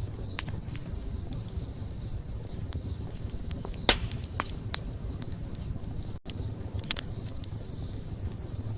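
Wood fire burning: a steady low rumble of flames with scattered sharp crackles and pops, the loudest about four seconds in. The sound drops out for a split second just after six seconds.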